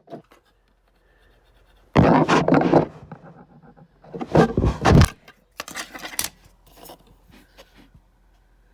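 Scraping and rubbing in three loud bursts, about two, four and a half and six seconds in, with softer scratches between them.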